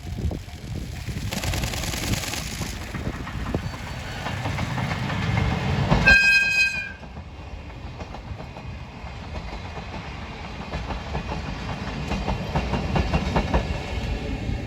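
Electric-locomotive-hauled train passing close by: the rumble builds, a short blast of the locomotive's horn sounds about six seconds in, then the wheels of the passenger cars clack steadily over the rail joints.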